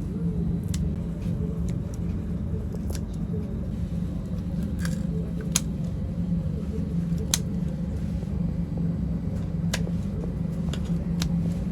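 A steady low machine hum, with scattered single sharp clicks or snaps every second or two.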